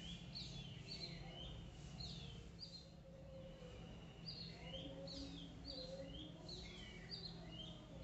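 Small birds chirping faintly, short downward-sweeping calls about two a second with a brief pause midway, over a faint steady low hum.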